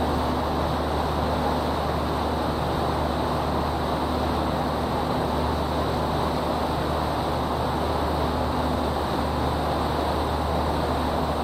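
Steady running of a river boat's engine: a low, even hum under a constant rush of noise.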